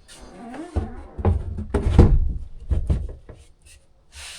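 Plywood step lid being handled and set onto its pegs: a run of wooden knocks and scrapes, the loudest about two seconds in.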